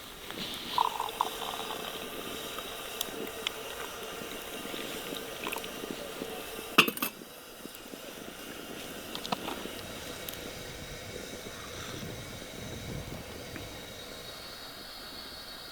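Kitchen work with liquid: a steady sound of liquid being poured or bubbling, with scattered clinks of dishes and a sharp knock about seven seconds in.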